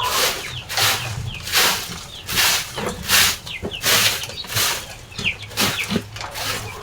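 Rhythmic brushing strokes, a little more than one a second, as a chick feeding area is cleaned, with small chicks peeping between the strokes.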